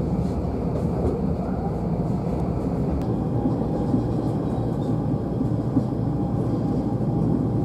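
Passenger train running at speed, a steady rumble heard from inside the carriage. A faint steady whine joins about three seconds in.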